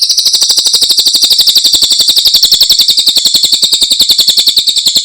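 Cililin bird singing a rapid, high-pitched trill of evenly repeated sharp notes, about a dozen a second, loud and steady throughout.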